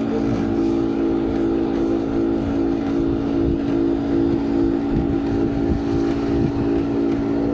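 Steady mechanical hum holding several constant pitches over a rough low rumble, like a small motor running.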